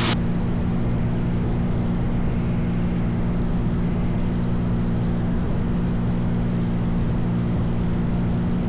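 Cessna 182's piston engine and propeller droning steadily in level flight, one even low hum that does not change.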